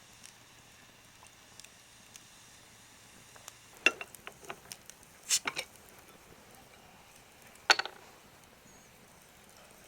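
A few short sharp clicks and knocks, a cluster of them about four to five and a half seconds in and one more near eight seconds, over a faint steady hiss.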